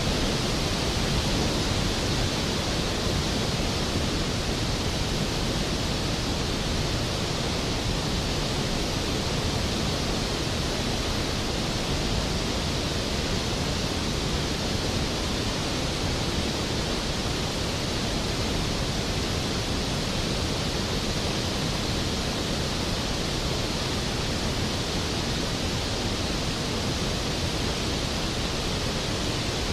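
Skógafoss waterfall: a large volume of glacial river water falling and crashing into its plunge pool, a steady, unbroken rushing roar.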